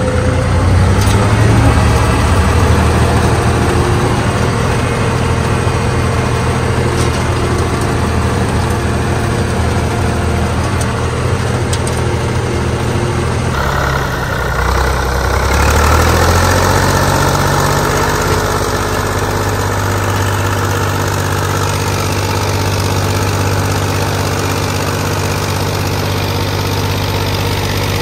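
Zetor 3011 tractor's three-cylinder diesel engine running steadily; its note dips and changes about halfway through, then holds steady again.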